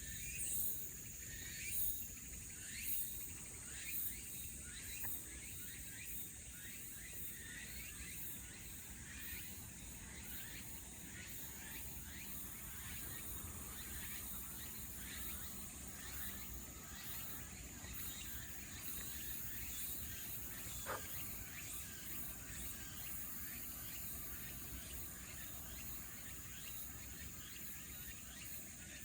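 Insects calling in a steady, high-pitched drone, with many short chirps throughout and one brief rising chirp about two-thirds of the way through.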